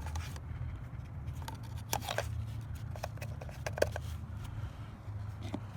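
A few light clicks and taps of small parts and tools being handled, over a low steady hum.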